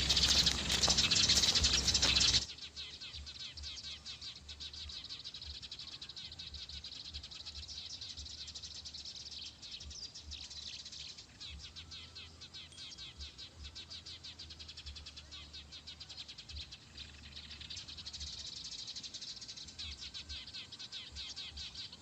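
A loud rustling noise for about the first two seconds, then many Eurasian tree sparrows chirping quickly and continuously.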